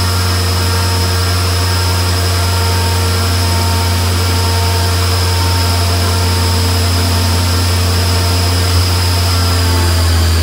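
Turbocharged 2.5 L four-cylinder Mazdaspeed 3 running at a steady speed on a chassis dyno: a steady low drone with a high whine over it. Near the end the pitch starts to fall as it slows.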